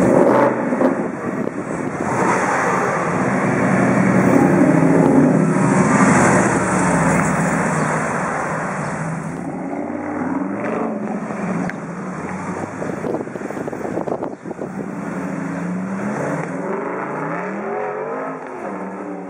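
Mercedes-Benz SLS AMG's 6.2-litre V8 through an Akrapovič exhaust, accelerating hard several times, its note rising through the revs with each pull. It fades away near the end.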